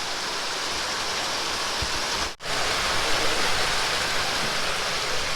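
Steady rush of flowing creek water, as over a small waterfall or weir, which cuts out for an instant a little over two seconds in.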